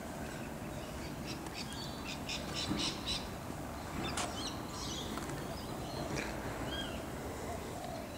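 Birds calling outdoors: a quick run of short, high chirps, with a few more scattered calls later, over a steady low background noise.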